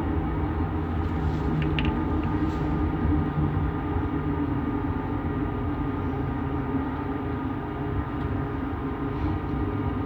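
Bombardier Innovia Metro 300 driverless light-rail train heard from inside the car while running between stations: a steady rolling rumble with a steady hum from its linear induction motors, and a few faint ticks early on.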